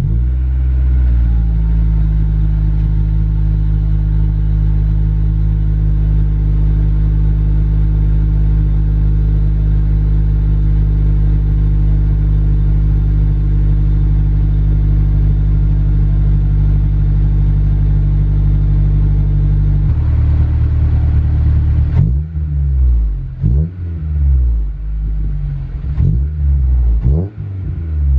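Honda S2000's 2.2-litre four-cylinder VTEC engine, breathing through a T1R 70mm Sparrow dual exhaust, catches and settles into a steady, deep idle. Later it is blipped about six times in quick succession, each rev rising and falling sharply.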